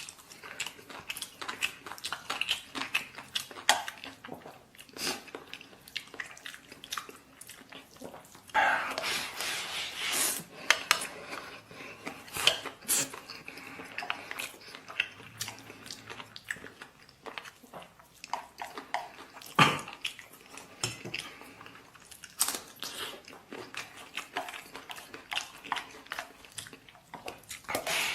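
A person eating: chewing, with utensils clicking and scraping against a bowl or plate many times.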